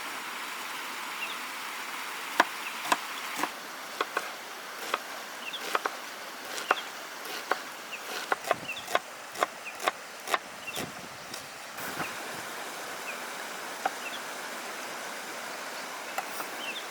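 Kitchen knife dicing an onion on a cutting board: sharp, irregular taps that come in a quicker run in the middle, over a steady outdoor hiss of insects.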